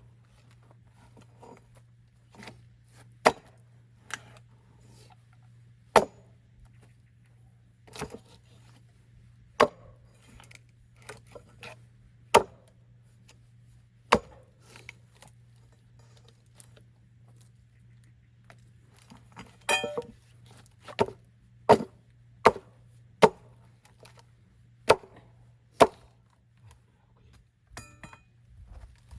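Axe splitting firewood: single sharp strikes on wood every couple of seconds, then a longer crackling crack a little past two-thirds through, followed by a quicker run of blows less than a second apart.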